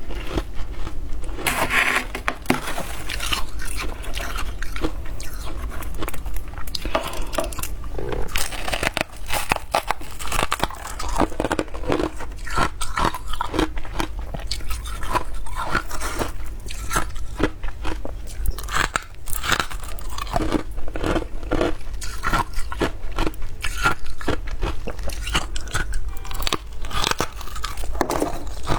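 Close-miked biting and chewing of fluffy freezer frost: continuous, dense crunching with many quick, irregular crackles.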